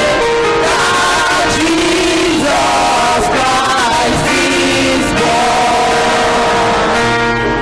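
Choir singing a gospel song with instrumental accompaniment, sung lines rising and falling over sustained chords.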